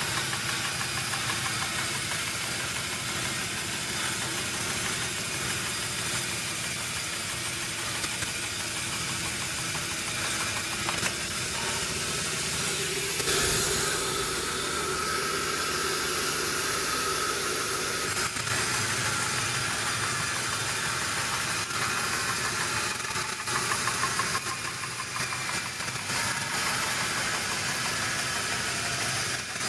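Sawmill machinery running steadily, an engine-like mechanical drone, with a brief change in its sound about halfway through.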